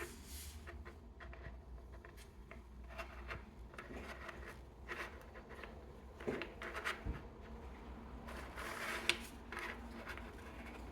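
Small toy and its blind-box packaging being handled: irregular rustling and scraping, with a few light knocks, the sharpest about nine seconds in.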